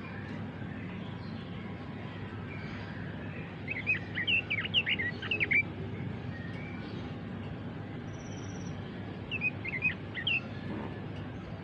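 Red-billed leiothrix (Pekin robin) singing: a quick warbling phrase of rapid, sliding notes about four seconds in, lasting about two seconds, then a shorter phrase near the end.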